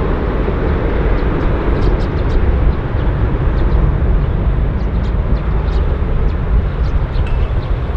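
Aircraft engine noise near the runway: a loud, steady, deep rumble with no rise or fall.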